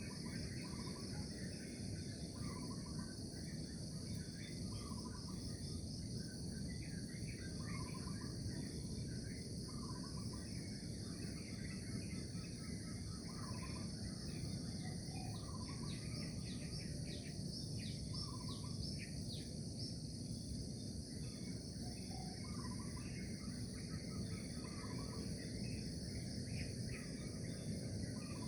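Morning nature ambience: a steady high-pitched insect chorus, a short call that repeats every couple of seconds, and scattered bird chirps that grow busier midway, all over a low, even background rush.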